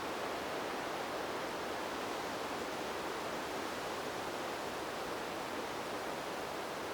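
Wind blowing through trees as a steady, even rushing noise. It does not gust or change, and most of it sits in the middle of the range.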